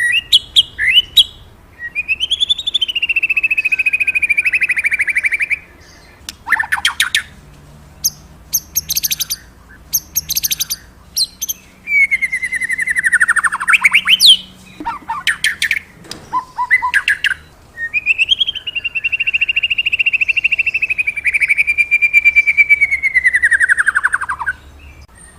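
A murai songbird singing loudly. Three long rasping, rattling phrases slide down in pitch, and quick sharp chips and high rapid trills come between them.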